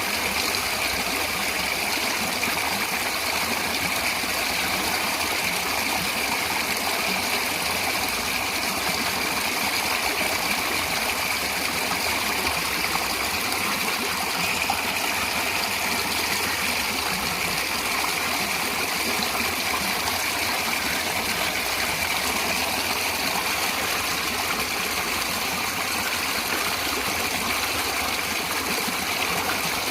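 Natural stream of water running steadily, a continuous even rush with no breaks.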